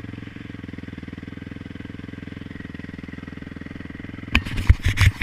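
A motocross motorcycle engine running steadily with an even, rapid pulse. About four seconds in, loud irregular thumps and rustling cut in over it.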